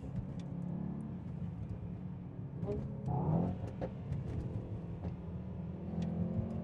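Car engine running steadily at low revs, heard from inside the car, its pitch rising slightly near the end.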